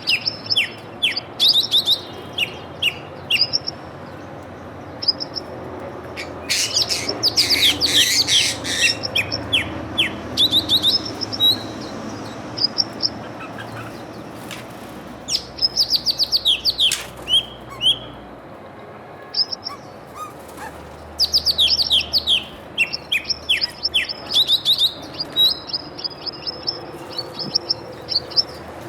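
Small songbirds chirping in quick runs of short, high, falling notes, with a denser burst of several birds calling at once about seven seconds in and a brief lull around twenty seconds.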